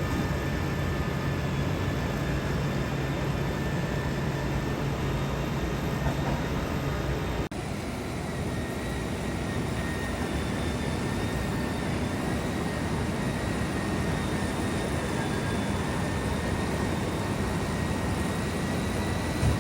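Jet airliner engines running steadily, a continuous rush of noise with a faint high whine over it; the sound breaks off briefly about seven seconds in and resumes.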